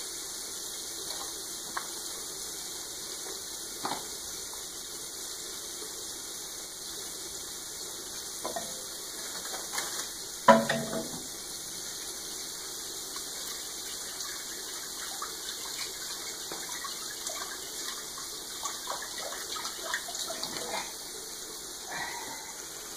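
Steady sizzle of squid rings (rabas) frying in hot oil, with a few light knocks and one louder short clatter about halfway through.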